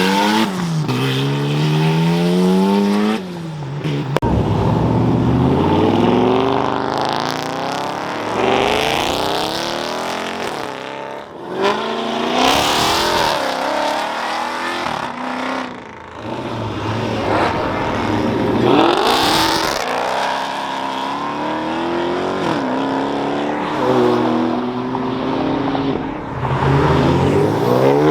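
Cars accelerating hard past one after another, engines revving up in rising sweeps and dropping as they shift, with several separate passes.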